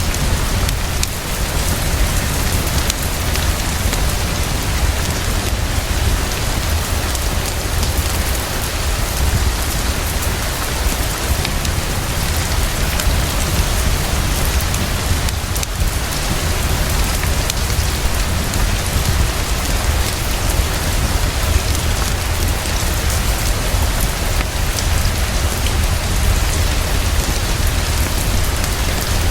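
Heavy, fast, steady rainfall, with a constant deep low rumble underneath.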